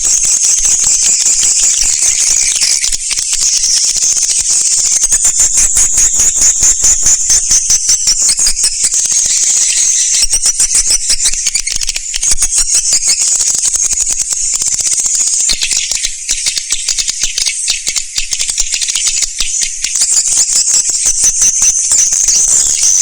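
Swiftlet lure call: a dense, continuous high-pitched twittering of rapid chirps and clicks from many birds at once, swelling and easing in waves.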